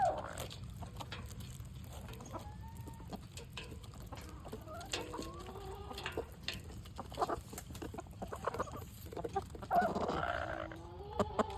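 Chickens clucking softly with short rising and falling calls while feeding, amid many sharp taps of beaks pecking at food. A louder squawk comes about ten seconds in.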